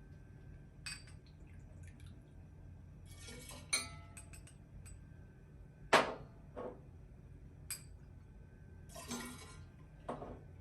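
Scattered clinks and knocks of glass and metal bar tools, with short splashes of liquid, as rum is measured and poured into a cocktail shaker; the sharpest knock comes about six seconds in.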